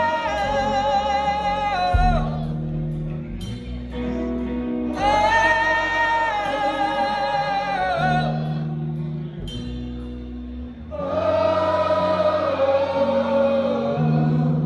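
Live call-and-response singalong: voices sing three long held 'oh' notes with vibrato, each a few seconds, over a slow, soft band accompaniment of sustained low notes.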